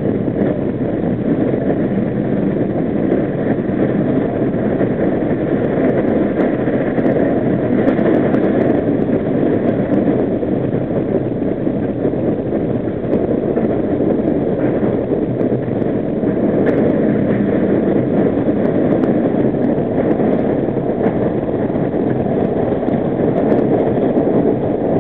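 Steady rumble of an R40 subway car running at speed: wheels on the rails and the running gear, with a few faint clicks.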